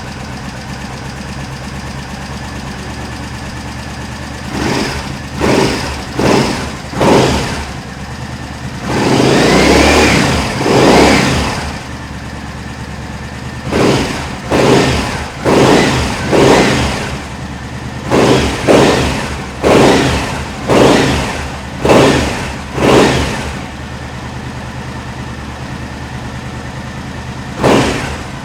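2009 Triumph Speedmaster's air-cooled 865 cc parallel-twin engine idling just after start-up, revved repeatedly with throttle blips. It gives a few short blips, then two longer revs, then a run of about ten quick blips, and one last blip near the end before it settles back to idle.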